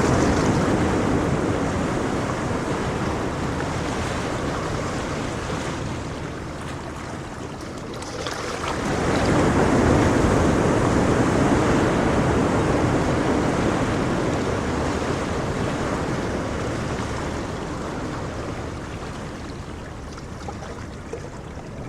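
Ocean waves washing in and drawing back, two slow surges about nine seconds apart, each swelling and then fading away.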